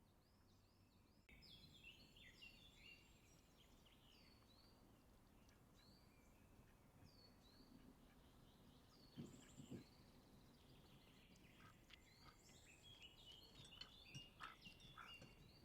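Faint birdsong: many short, quick, falling chirps, growing busier near the end, with two soft low knocks about nine seconds in.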